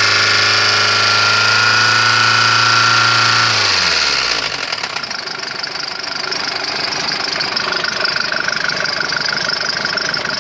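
Mercedes-Benz OM601 diesel engine running at raised revs, then dropping back to idle about four seconds in and idling with a knock.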